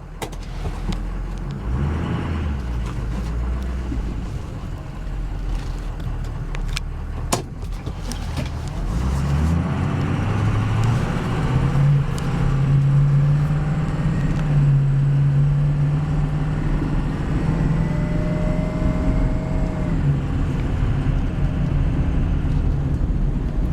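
2003 Ford F350 Super Duty's 6.0-litre Powerstroke turbo diesel V8 pulling the truck along, with road noise. The engine note climbs as the truck accelerates about ten seconds in, holds steady, and drops off about twenty seconds in. A faint rising whine comes just before the drop.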